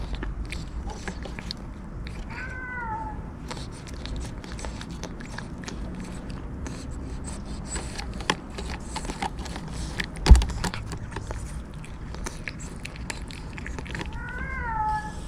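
A cat meows twice: a short call about two seconds in and another near the end, each rising then falling in pitch. Between the calls come small clicks and one sharp knock about ten seconds in, the loudest sound.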